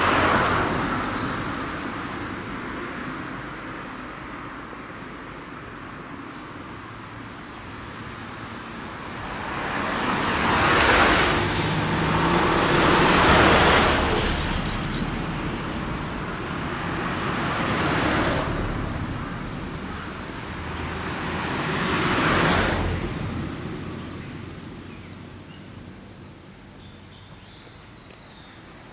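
Road vehicles passing one after another, about five in all. Each is a swell of tyre and engine noise that rises and fades away, the loudest a little before halfway through.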